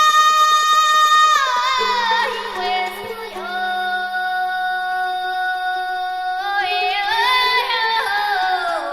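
A high solo voice singing in the Yunnan haicai-qiang folk style, holding a long high note that glides down about a second and a half in to a lower held note, then rising and falling again near the end.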